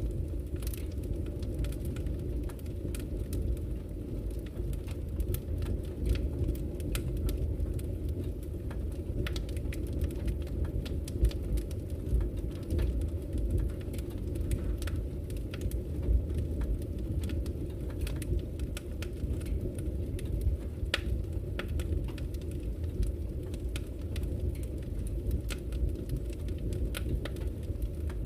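Wood fire crackling: frequent sharp, irregular pops and snaps over a steady low rumble of burning logs.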